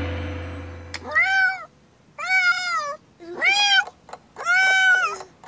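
Cartoon cat meowing four times, each meow rising and then falling in pitch, after a low ringing tone fades out during the first second.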